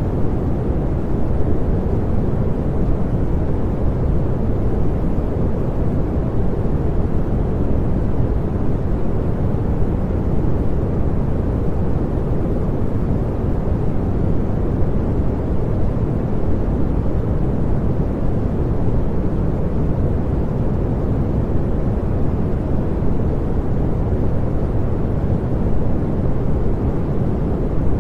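Continuous pink noise: a steady, even rush with no tones or changes, weighted toward the low end, deeper than white noise.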